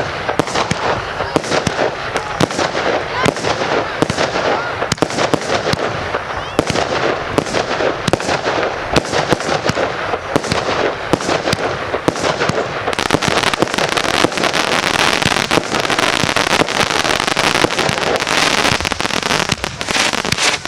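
Consumer firework cakes going off in rapid succession: a dense run of sharp bangs and pops over continuous crackling, growing busier and brighter in the second half.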